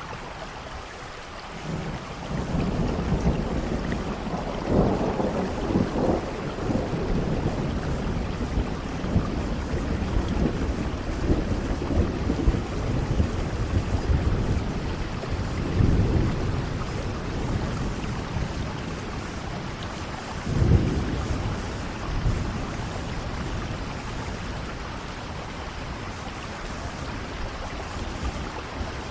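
Steady rain with rolling thunder. A low rumble begins about two seconds in and keeps rolling, swelling several times, loudest about twenty seconds in.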